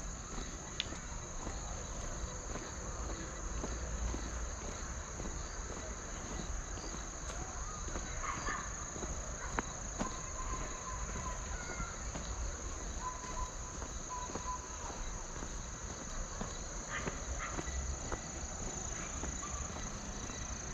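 A steady high-pitched chorus of insects such as crickets, unbroken throughout, over the soft footsteps of someone walking on a park path.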